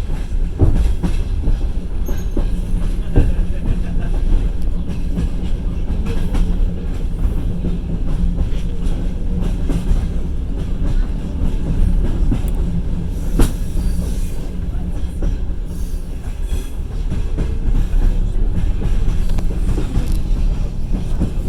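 Passenger train running, heard from inside the carriage: a steady low rumble of wheels on rails with a few sharp clacks, the loudest about three seconds and thirteen seconds in.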